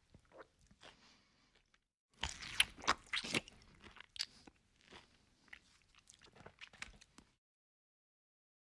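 Close-up eating sounds: a person chewing and crunching food, with a loud run of crunches from about two seconds in and lighter, scattered ones after. The sound cuts off abruptly about a second before the end.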